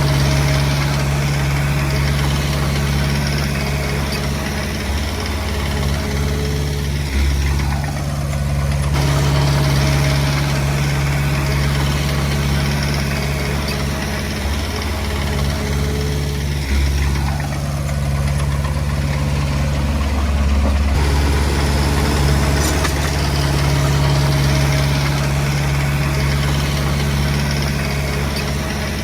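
Diesel engine of a Komatsu D20P bulldozer running steadily with a low drone. Twice a whine falls in pitch over a second or two.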